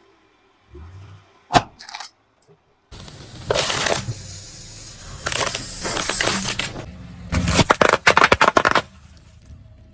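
Crunchy objects breaking under car wheels: a single sharp crack about a second and a half in, then long stretches of dense crunching and crackling, ending in a rapid run of cracks near the end.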